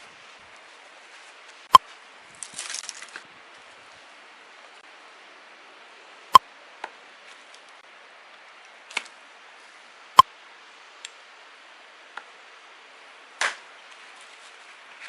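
Firewood being chopped or split: single sharp strikes a few seconds apart, the three loudest with a short ringing note, between softer knocks and a brief rustle.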